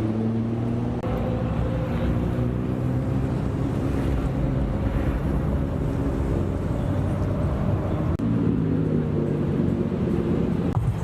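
Car engines running steadily, a low droning hum with a steady tone, over open-air noise. The sound changes abruptly about eight seconds in to a different engine note.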